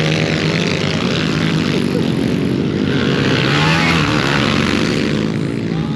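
Several pit bike engines racing on a dirt track, their revs rising and falling as the riders battle for position.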